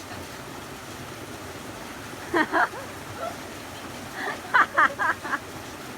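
Steady rush of a waterfall and its flowing water, with short bursts of people's voices calling out about two seconds in and again near five seconds.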